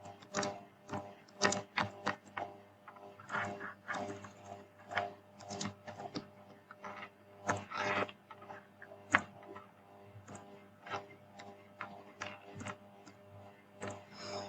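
Computer keyboard being typed on: irregular, uneven key clicks, with a faint steady electrical hum underneath.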